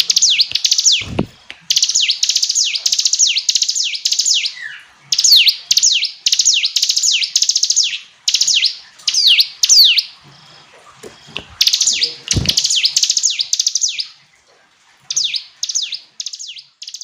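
Ciblek gunung (a mountain prinia) singing loud, fast phrases of sharply falling, chipping notes, with short pauses between phrases. A couple of brief low thumps sound about a second in and again past the middle.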